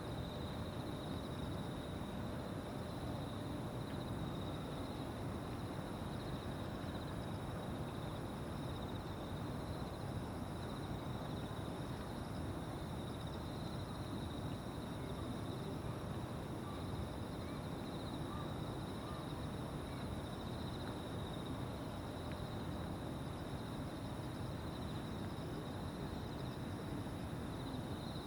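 A chorus of insects trilling steadily in two high, unbroken tones over a constant low rumble.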